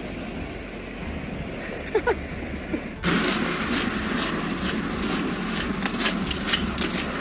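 Outdoor street noise with vehicle traffic. About three seconds in it cuts to a louder, steady hiss with crackling.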